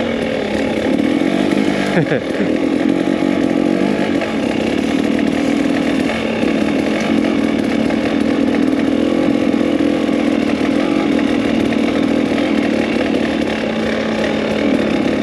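KTM 300 EXC two-stroke dirt bike engine running steadily at low speed on a sandy trail, held slow on the clutch, with a brief drop in pitch about two seconds in.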